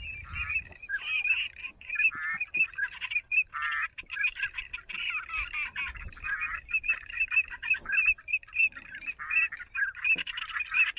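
A dense chorus of waterfowl calling: many short, quick calls overlap without a break.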